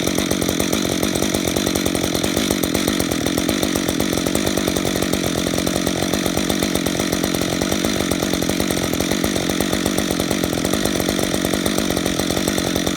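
Chainsaw with a 28-inch bar running steadily, cutting into a California black walnut stump.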